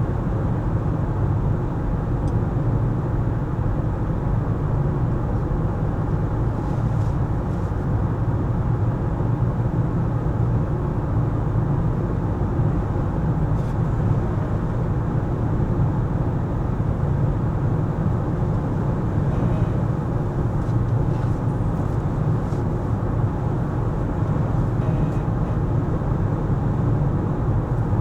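Steady road and engine noise of a car driving in city traffic: an even low rumble that does not rise or fall.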